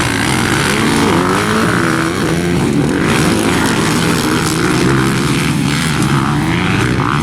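Motocross dirt bike engine revving hard, its pitch rising and falling again and again as the throttle opens and closes.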